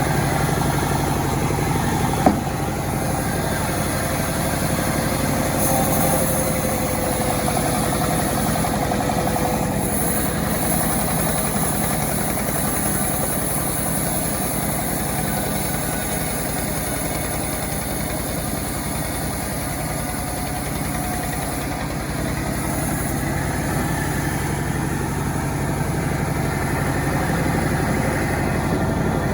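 Self-assembled chainsaw engine running steadily, with one sharp click about two seconds in.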